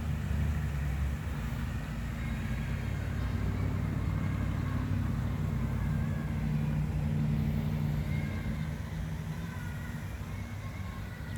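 Low, steady engine hum of a motor vehicle running, easing off slightly near the end.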